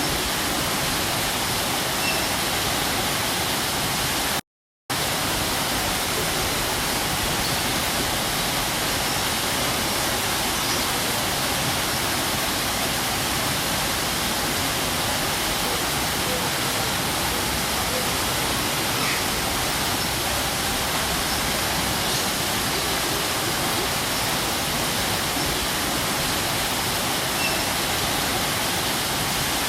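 A waterfall rushing steadily, an even wash of water noise with no change in pitch. About four and a half seconds in, it cuts out to silence for a moment, then resumes as before.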